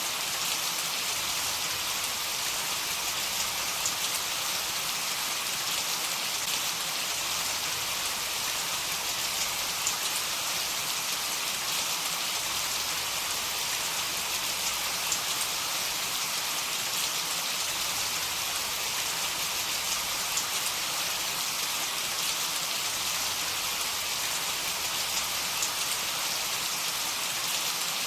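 Heavy rain falling steadily on a surface: an even hiss with scattered ticks of individual drops and no thunder.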